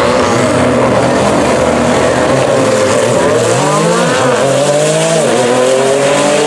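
A high-powered car accelerating hard on a drag strip. The engine revs rise, then drop sharply at gear changes about four and five seconds in.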